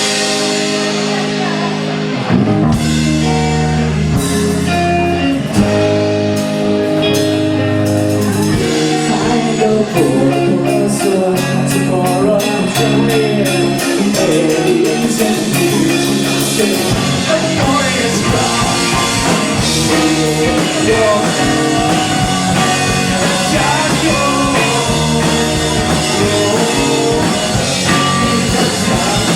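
Live rock band playing a song: guitar over bass and drum kit, the cymbals growing fuller in the second half.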